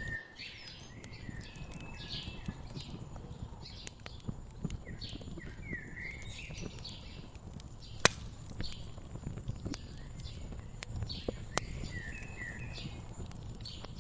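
Wood fire crackling in a fireplace: a low steady rumble with scattered sharp pops, one loud snap about eight seconds in. Birds call with short repeated chirps throughout.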